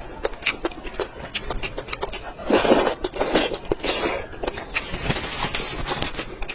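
Close-miked eating: a person chewing food with many sharp wet clicks, plus two louder, longer noisy mouth sounds about two and a half and three and a half seconds in.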